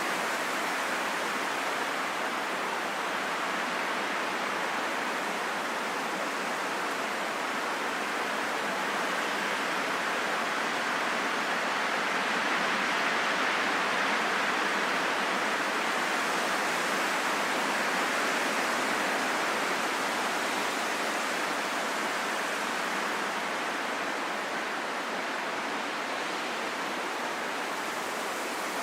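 Steady rain falling in a forest, an even hiss with no separate drops standing out, swelling slightly in the middle.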